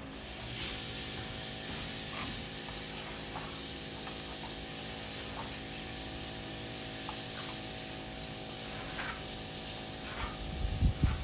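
A spray nozzle hissing steadily as liquid is sprayed out, with a few faint ticks. Low thumps come in near the end.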